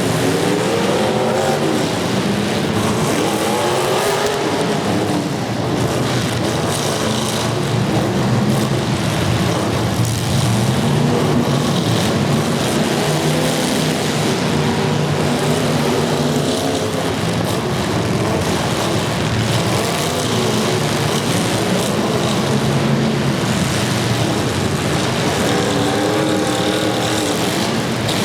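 Several demolition derby cars' engines running and revving together, their pitches rising and falling throughout, with a few sharp knocks.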